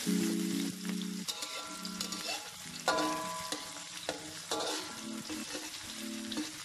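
Chopped onion and garlic sizzling in hot oil in a large wok, with a metal spatula stirring and scraping across the pan again and again.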